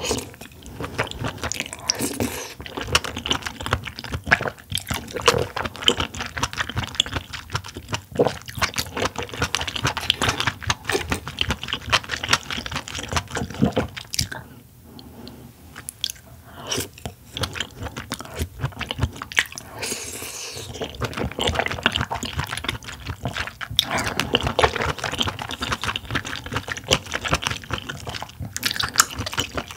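Close-miked chewing of large steamed oysters in a pink cream sauce: wet mouth sounds and smacks between bites, with a short lull about halfway through.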